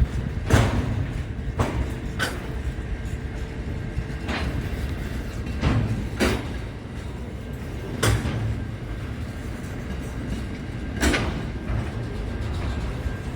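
A train running with a steady low rumble, broken by about eight sharp metallic clanks at irregular intervals.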